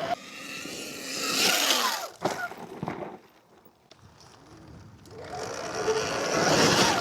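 Electric dirt bike passing: a motor whine with rushing noise that swells and falls away, goes almost quiet in the middle, then builds again near the end.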